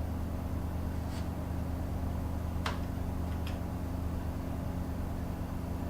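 Steady low mechanical hum of a running machine, with a few faint light clicks about one, two and a half and three and a half seconds in.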